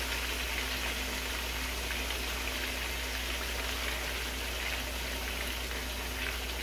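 Chicken thighs frying skin side down in about half an inch of hot oil in a cast iron skillet: a steady sizzle.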